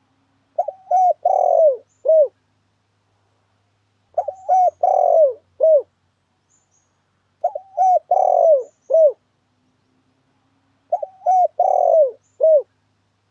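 Spotted dove (tekukur) lure call: four cooing phrases about three and a half seconds apart, each a few short coos, a longer drawn-out coo, then one short closing note. Faint high chirps sound alongside.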